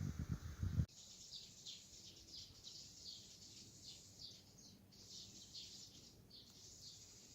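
Wind buffeting the microphone in low thumps for under a second, then an abrupt cut to small birds chirping: a steady run of short, high chirps.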